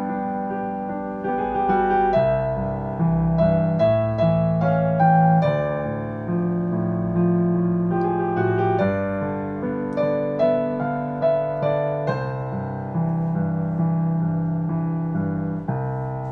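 Piano playing a slow, song-like melody over chords, decorated with turn ornaments. Notes are struck about every half second, and a final chord is struck near the end and left to fade.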